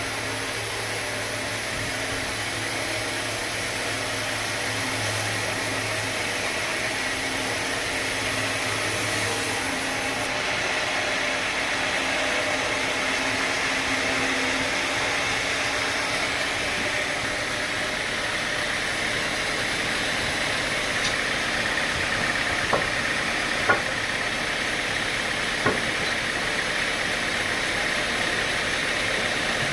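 Sawmill machinery running steadily, with a low hum that stops about ten seconds in and a few sharp knocks near the end.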